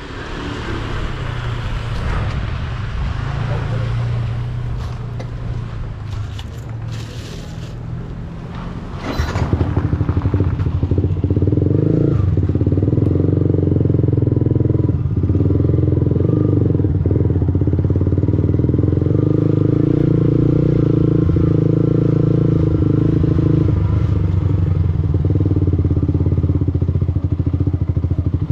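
Motorcycle engine, a Yamaha R15's single-cylinder four-stroke, running under way with wind rush. About nine seconds in, the engine note becomes loud and steady at constant revs, with a few brief dips.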